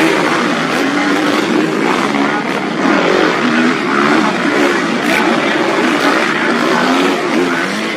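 Several motocross bikes racing on a grass track, their engines revving up and down as the riders accelerate and back off, overlapping one another.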